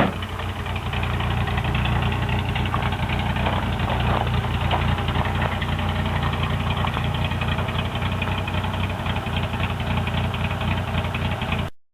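1984 Toyota pickup's 22R four-cylinder engine idling steadily, its exhaust rumbling through a Cherry Bomb muffler. The sound cuts off suddenly near the end.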